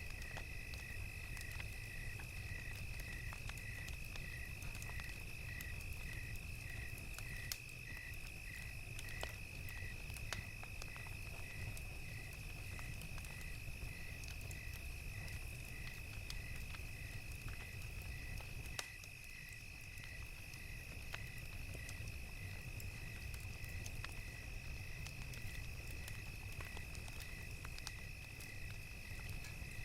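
Night ambience of crickets: a steady high chorus with one call pulsing evenly, about one and a half times a second, over a low rumble and scattered sharp pops of a crackling campfire.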